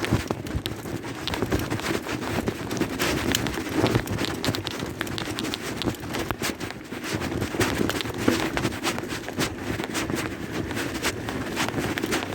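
Bicycle riding over a rough dirt and gravel trail: tyres crunching, with frequent irregular rattles and knocks from the bike.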